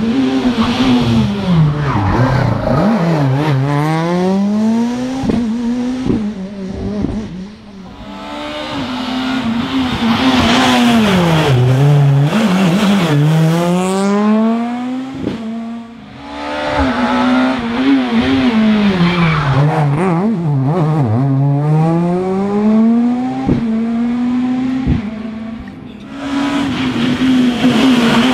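Rally car engine at full throttle in several passes, its revs climbing and dropping again and again through quick gear changes, with a few sharp cracks in between.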